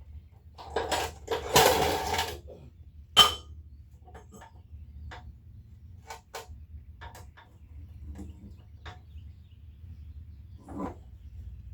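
Steel pieces and tools being handled: a rough scraping noise for about two seconds, then a sharp metallic clank, followed by scattered light clicks and taps.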